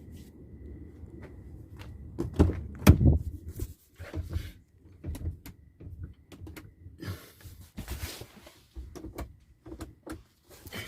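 Car door being shut with two heavy thumps about two and a half to three seconds in, followed by scattered clicks and knocks of handling at the car.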